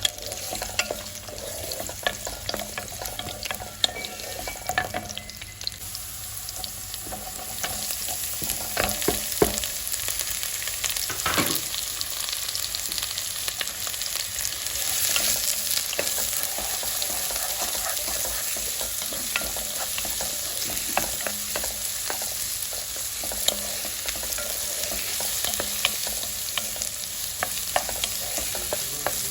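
Food frying in a pot with a steady sizzle that grows louder about eight seconds in, while it is stirred, the utensil clicking and scraping against the pot.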